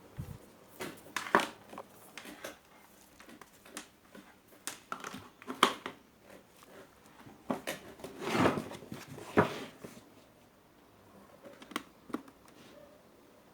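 Irregular clicks, knocks and rustling from handling parts and tools at a repair bench, with a busier spell of handling about eight to nine and a half seconds in.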